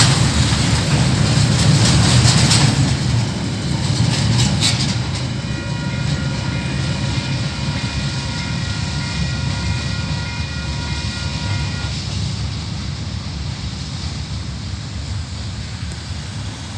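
Loaded coal wagons of a KiwiRail coal train rolling over the crossing: a low rumble with a few sharp wheel clicks in the first seconds, slowly fading as the train moves away. A steady high ringing tone sounds over it for several seconds in the middle.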